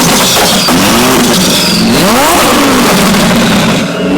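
Loud supercar engine idling with its throttle blipped twice: a short rev about half a second in, then a bigger one about two seconds in that climbs sharply and drops back to idle.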